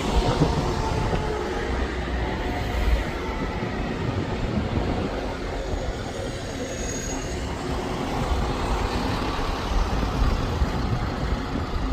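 A moving vehicle's steady low rumble, with faint whining tones drifting in pitch early on.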